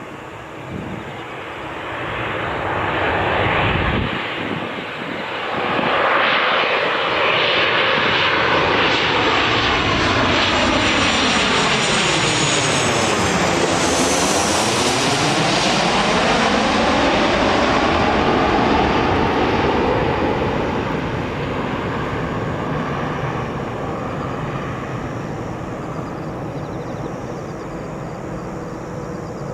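Boeing 737-800 jet airliner with its CFM56-7B turbofans on landing approach, flying low past: the engine noise builds, peaks with a high fan whine as it passes about 14 seconds in, then slowly fades as it moves away.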